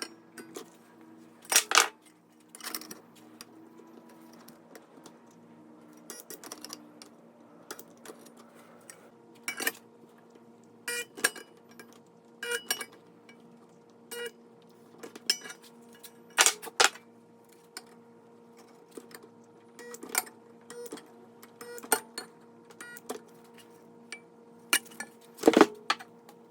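Small metal parts clinking and tapping against each other and a hard surface as they are handled, in irregular knocks with the loudest near the start, around the middle and near the end. A faint steady hum runs underneath.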